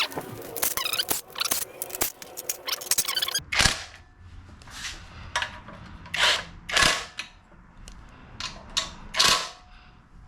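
Metal clicking and rattling from hand work on a minibike engine, followed by about eight short, separate rasping strokes.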